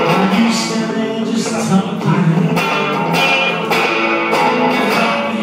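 Live rock band playing an instrumental stretch between sung lines, guitar to the fore over a steady beat.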